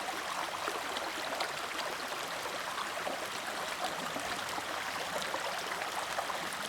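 Small trailside watercourse running steadily, a constant rush of water with fine splashing ticks through it.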